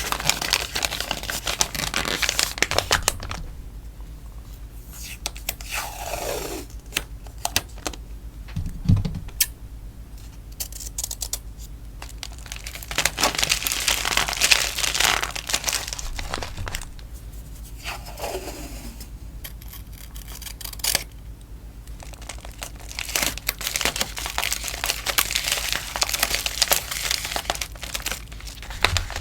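Crinkling, rustling and tearing of plastic and paper packaging as sticker orders are packed by hand, in bursts with quieter handling between. Twice a short sound slides down in pitch.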